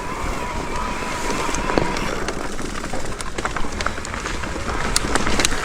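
Mountain bike riding over rocks: steady wind rush, then a run of sharp clicks and rattles from about two seconds in as the bike crosses the rocky ground.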